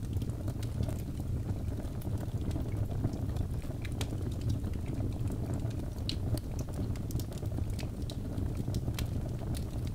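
Wood fire burning in a fireplace: a steady low rumble of the flames with frequent sharp crackles and pops of burning birch logs.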